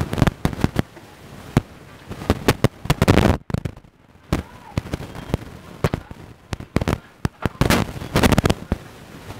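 Eating noises heard up close: a man chewing a mouthful of rice and fried galunggong (round scad), with irregular wet clicks, lip-smacks and crunchy crackles, and a brief pause a little before halfway.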